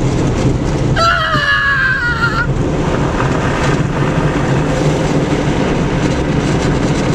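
Car wash air dryer blowers blasting steadily against the car, heard from inside the cabin. About a second in, a high wavering tone rises over the blast for about a second and a half.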